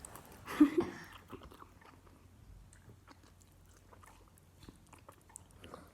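Someone eating noodles: faint chewing with scattered small clicks, after a short louder sound under a second in.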